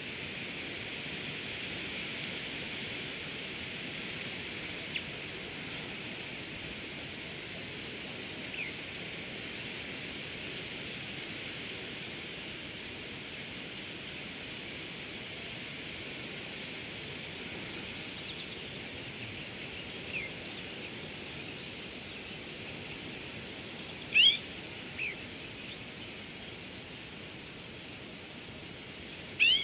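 Outdoor ambience of a steady hiss with a thin high whine, broken by a few brief bird chirps. The loudest chirps come as a quick pair about three-quarters of the way through and once more at the very end.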